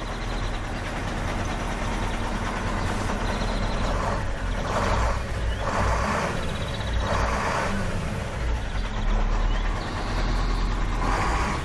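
A motor running steadily with a low hum, with several louder surges of rushing noise in the middle and again near the end.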